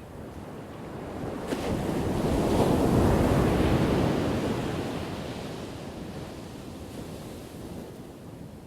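A single ocean wave crashing and washing back: the surf swells up from about a second in, is loudest around three seconds, then slowly fades away.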